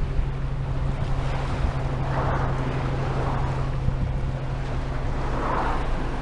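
Wind rushing over the microphone of a camera on a moving bicycle, with a steady low rumble from the ride and two swells of louder rushing partway through.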